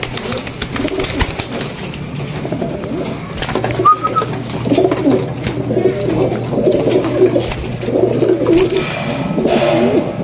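Several pigeons cooing, their low wavering calls overlapping from about four seconds in, over a scatter of light clicks.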